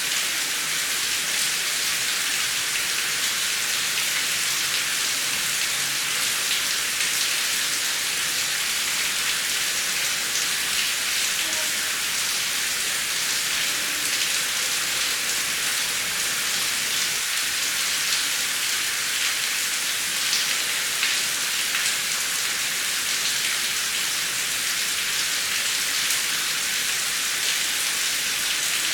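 Steady heavy rain, a dense even hiss with fine patter of drops and no thunder.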